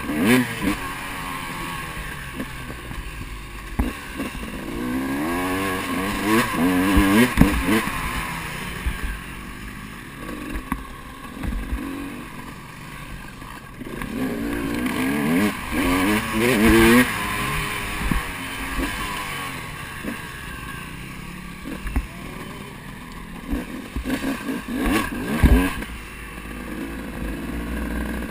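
KTM enduro motorcycle engine revving up and easing off again and again while riding a dirt track, heard from a camera on the bike over a steady rush of wind. The revs climb hardest about a quarter of the way in and again a little past the middle.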